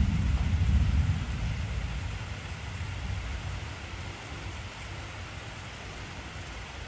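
Steady heavy rain, with a low rumble of thunder that breaks in suddenly at the start, is loudest for about a second and then fades away over the next few seconds.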